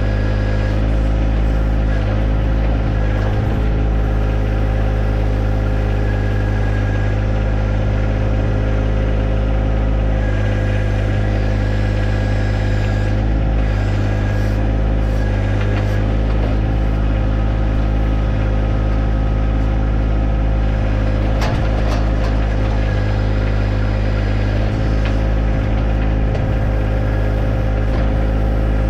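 John Deere 1025R compact tractor's three-cylinder diesel engine running steadily, with a short sharp knock about three-quarters of the way through.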